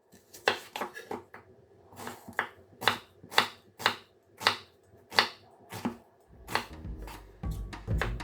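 A run of sharp knocks, about two a second and slightly irregular. A steady low background sound, likely music, comes in about six seconds in.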